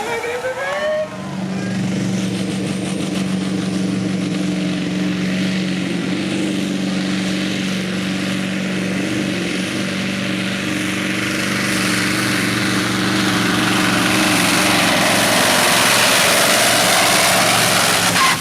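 Supersport pulling truck's engine running at full power as it drags a weighted pulling sled down the track: a steady engine note comes in about a second in, with a heavy roar that grows louder toward the end.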